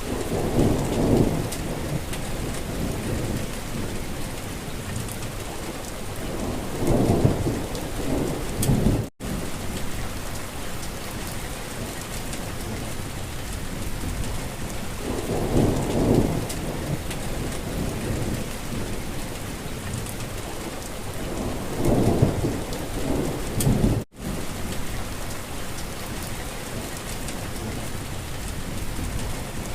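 Steady rain falling, a constant hiss, with deep low rumbles swelling up every several seconds. The sound cuts out for an instant twice, about a third and four-fifths of the way through.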